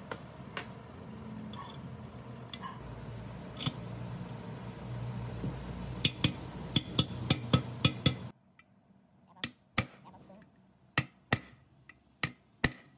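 Metal tools and parts clinking and tapping over a steady low hum. A quick run of ringing metallic clinks comes about six seconds in; then the hum cuts off abruptly and single sharp taps follow every second or so.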